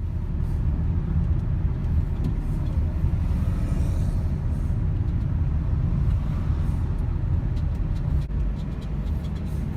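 Steady low rumble of a vehicle on the move: road and wind noise, with faint ticks above it.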